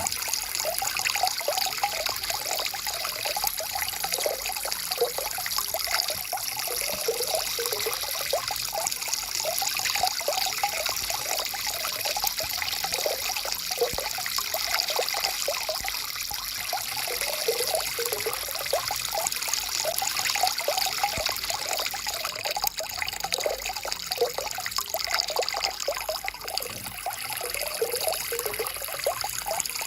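Small forest stream trickling and burbling over stones, a steady rush of water with constant bubbling.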